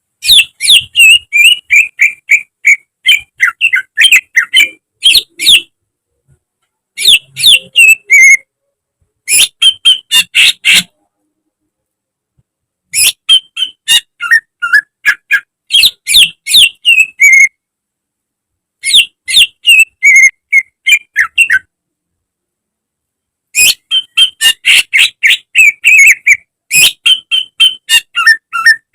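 Green leafbird (cucak ijo) singing loud phrases of rapid, sharp whistled and chirping notes. Six phrases, from about one to five seconds long, are separated by pauses of dead silence.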